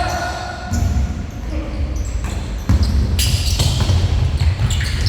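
Basketball bouncing on an indoor court during a game, with players' footsteps and short high squeaks, the loudest stretch starting a little under three seconds in.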